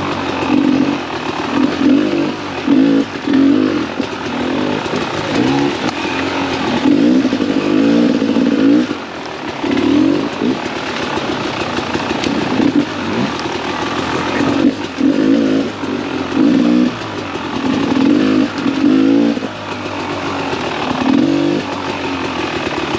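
Beta 300 RR two-stroke dirt bike engine revving in repeated bursts as the throttle is opened and closed while riding, its pitch rising and falling every second or two.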